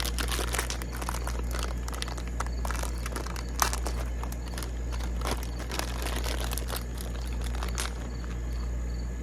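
Fritos corn chips crinkling and rattling as they are poured from the bag into a bowl: a dense run of crackles that thins out about eight seconds in, over a steady low hum.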